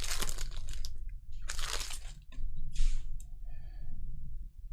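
Card box packaging and foil card pack wrappers being torn open and crinkled: a run of crackling at first, then separate bursts of tearing and rustling.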